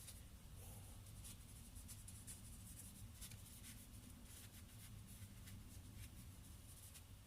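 Faint, quick scratching of a large paintbrush scrubbing acrylic paint sideways across a canvas in short repeated strokes, with a low room hum underneath.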